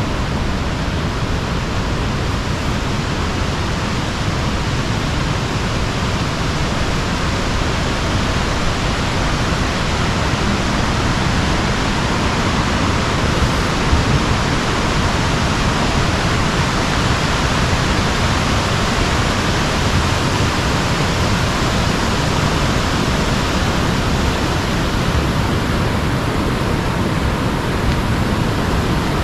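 Steady rushing of fast-flowing river water, an even, unbroken roar of water.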